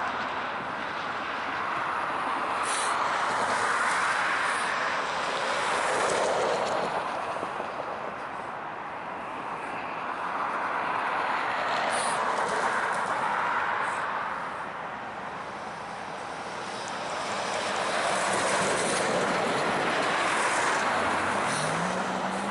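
Ex-EMD GP38-2 diesel switcher locomotive moving slowly as it backs along a spur: a steady rushing noise that swells and fades every few seconds, with a few sharp clicks. Near the end the engine's note rises as it revs up.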